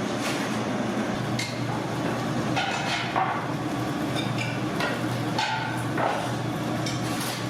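Kitchen clatter: an irregular series of sharp knocks and metallic clanks from cookware and utensils, over a steady low hum.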